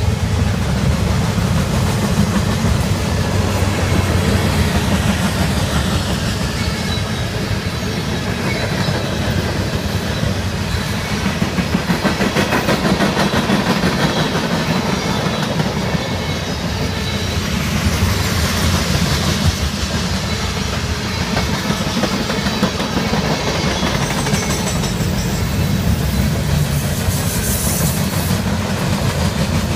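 Cars of a mixed freight train rolling past with a steady rumble, the wheels clacking over the rail joints.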